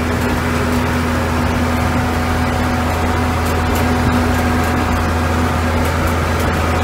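A vehicle engine running steadily at an even speed, a constant low hum with a steady tone above it.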